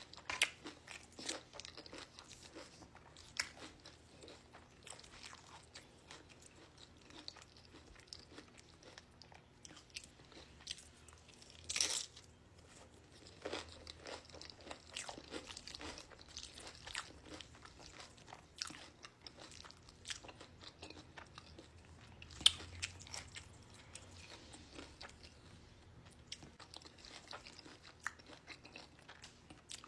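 Crunching and chewing of Flamin' Hot Nacho Doritos tortilla chips: irregular crisp crunches between quieter chewing, with louder bites about twelve seconds in and again after twenty-two seconds.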